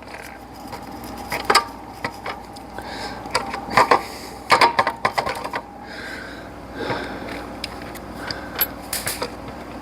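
Scattered metallic clicks and clinks of a bolt and hand tools against the alternator bracket as the bolt is worked into its thread, in irregular bursts of a few strikes.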